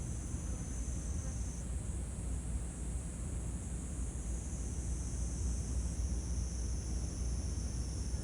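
A steady, high-pitched chorus of insects trilling without pause, over a low steady rumble.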